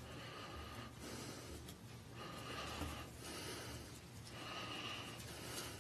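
Faint breathing close to a microphone: three soft breaths about two seconds apart.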